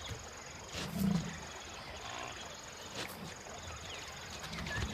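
African buffalo grunting low, once about a second in and again near the end, over a faint steady buzz of insects.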